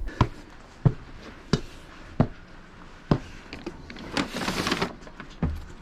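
Footsteps, about one every two-thirds of a second, then a short rustling and a low thump near the end.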